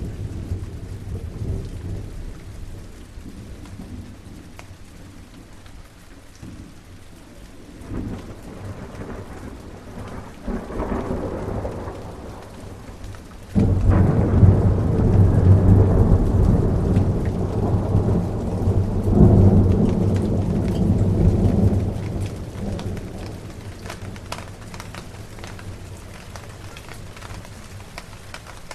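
Steady rain with thunder. Low rumbles build, then a thunderclap breaks suddenly about halfway through and rumbles loudly for several seconds before dying away, leaving the rain.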